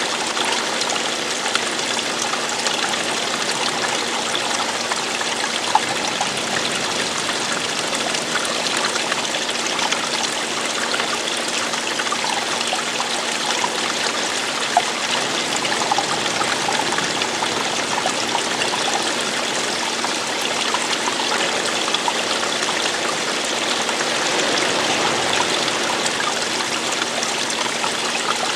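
Water running and trickling steadily, with a few small splashes now and then.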